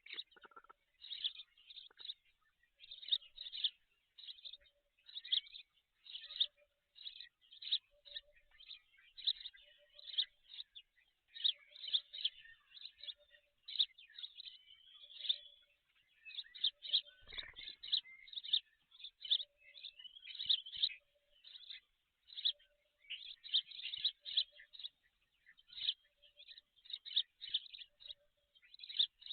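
Birds chirping in quick high-pitched bursts throughout, with a faint low hooting note repeating about once a second behind them. There is a soft low thud about halfway through.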